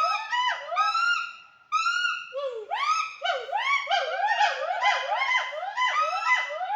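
A chorus of loud whooping animal calls, several voices overlapping, each note rising and falling in pitch, a few notes a second. There is a brief lull about a second and a half in, after which the calls come faster and denser.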